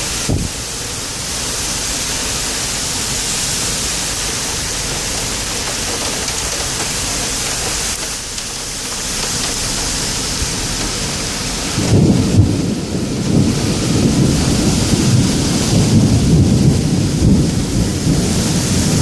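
Steady hiss of torrential thunderstorm rain. About two-thirds of the way through, a low rolling rumble of thunder sets in over the rain and keeps going, louder than anything before it.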